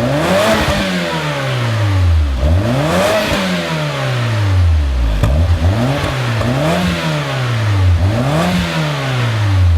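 Saab 9-3 Vector's engine revving through a BSR single aftermarket exhaust: several rev blips, each rising quickly and falling back slowly.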